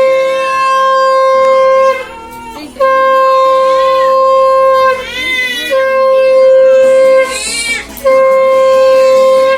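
A conch shell (shankha) is blown in four long, steady, horn-like blasts of about two seconds each, the traditional Bengali sounding to welcome a newborn home. High, wavering voice calls fill the short gaps between the blasts.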